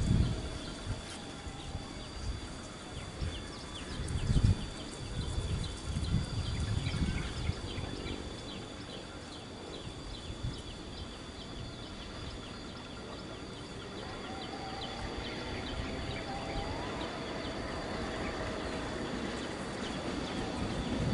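Hillside ambience of steady high-pitched insect buzzing and scattered bird chirps, with a few low thumps in the first seconds. About two-thirds of the way through, the rumble of an approaching diesel-hauled passenger train begins and grows slowly louder.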